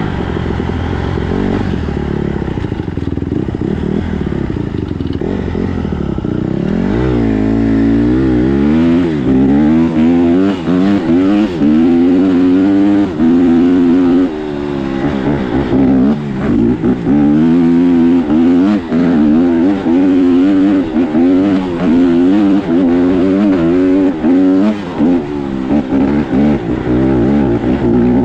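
Dirt bike engine being ridden, the throttle opened and shut over and over so the pitch rises and falls about once a second, with short drops in loudness as the throttle closes. Wind and clatter from the ride sit underneath.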